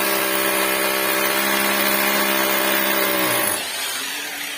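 Handheld electric power tool running at steady speed, then switched off about three and a half seconds in and spinning down.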